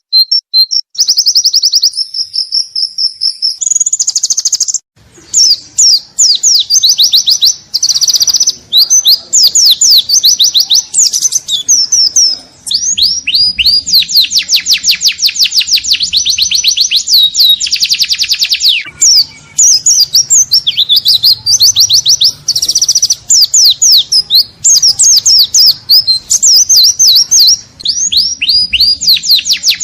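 White-eye (pleci) singing loudly and almost without pause: fast runs of rapid high notes, quick sweeping trills and chattering bursts, its song packed with fill-in (isian) phrases.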